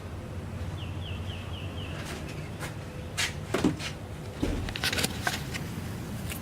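A bird gives a quick run of about five short, high chirps. From about halfway on come several sharp clicks and knocks, which are louder than the chirps.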